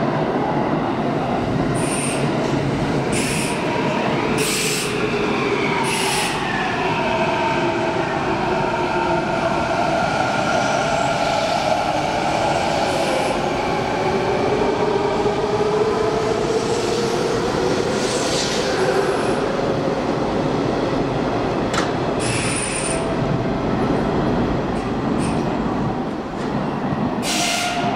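Electric commuter train running through a station. A whine of several tones glides down in pitch and then back up, and brief high wheel squeals cut in now and then.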